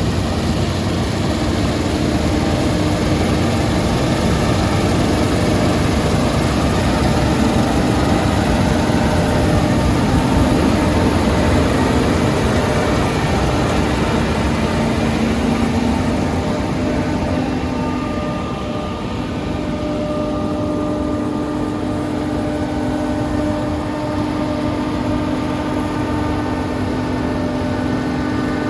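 John Deere rotary combine harvester running while cutting spring barley: a steady mechanical drone with a constant hum. About two-thirds of the way through the hiss eases a little and a few steady whining tones stand out more.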